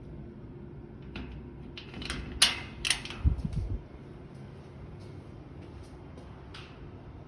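A steady low hum with a short cluster of clicks and knocks about two to four seconds in, ending in a few low thuds.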